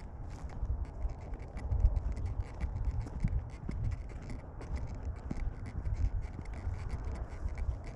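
Irregular scratching and rustling, a quick run of short scrapes over a low, uneven rumble.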